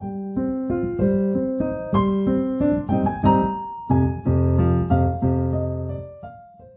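Piano music: a melody of single notes over chords, with fuller, louder bass chords from about four seconds in, then fading away near the end.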